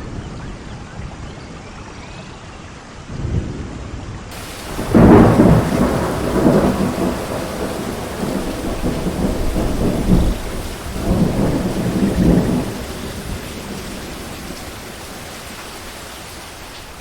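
Steady rain with a loud peal of thunder beginning about four seconds in, rumbling in several rolling surges for some eight seconds before fading back into the rain.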